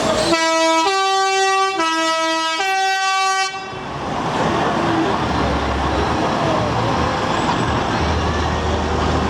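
Truck horn sounding in two alternating notes, low-high-low-high, for about three seconds, then a low engine rumble over background noise.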